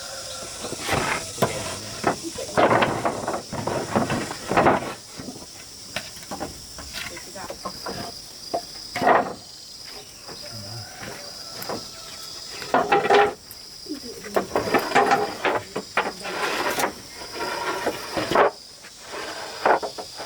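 Irregular knocks and clatter, as of handwork with tools or materials, over a steady high insect drone.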